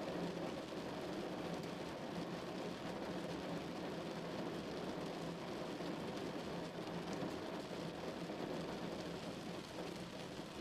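Steady rushing noise of a wind-like nature ambience, even throughout with no distinct events.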